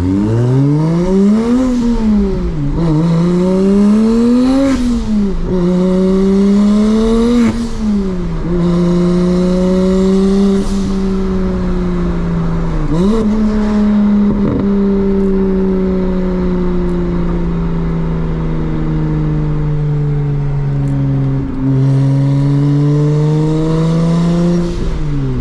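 BMW 335i's single-turbo N54 inline-six pulling hard through the gears: engine pitch climbs and falls back at each of three quick shifts, with a few sharp clicks around the shifts. It then settles into a steady run at cruising revs, steps down to lower revs about 21 s in, and drops and climbs again near the end.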